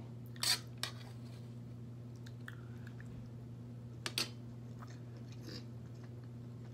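A person chewing a mouthful of rice and sausage, with a short sharp sound about half a second in and a metal spoon scraping the metal sheet pan about four seconds in. A steady low hum runs underneath.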